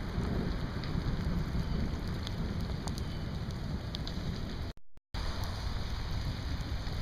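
Steady rain falling, with faint scattered drop ticks over a low rumble. The sound cuts out completely for a moment about five seconds in.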